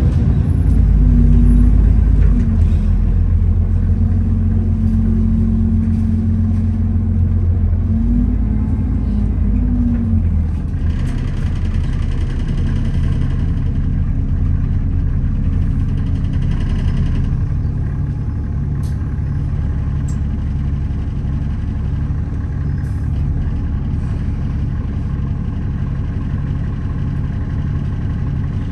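Alexander Dennis Enviro400 double-decker bus heard from inside the bus: its diesel engine and drivetrain give a loud, steady low drone. A tone in it dips and rises about eight to ten seconds in, and a higher rushing noise runs for several seconds after that. From about eighteen seconds in the engine settles into a lower, steadier running.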